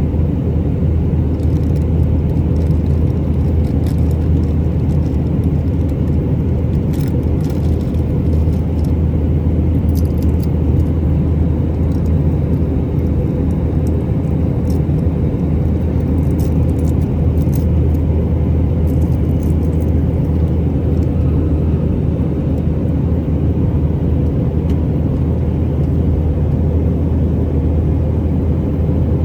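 Steady low drone inside the cabin of an Airbus A319 in flight: its IAE V2500 engines and the airflow make an even, unchanging rumble with a low hum. Faint light clicks and rattles come and go over it during the first two-thirds.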